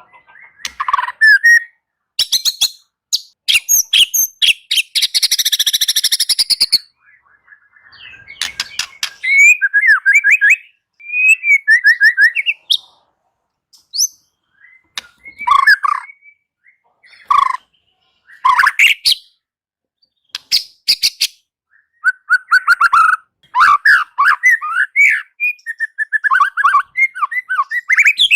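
White-rumped shama (murai batu) singing. Its varied whistled phrases are broken by fast dry rattles, with a harsh, scratchy stretch about five seconds in and short pauses between phrases.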